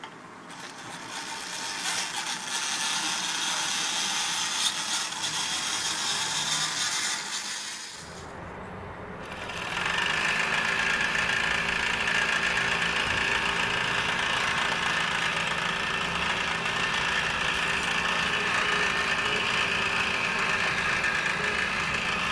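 Small model engine running steadily with a light rattle. About a third of the way in the sound drops briefly, then another engine runs at a steady pace.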